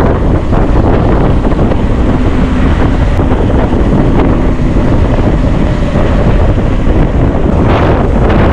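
Heavy wind buffeting the microphone of a camera carried on a moving bike: a loud, steady rumbling rush.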